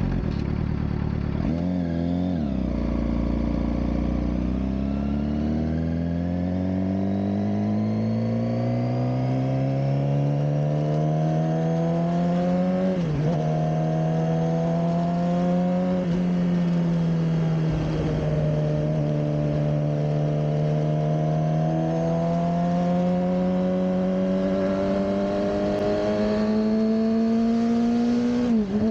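Suzuki GSX-R600 K7 inline-four engine under way. It pulls through a gear with its pitch rising slowly over about ten seconds, then holds a steady cruise. Short drops in pitch at gear changes come near the start, about halfway, and near the end.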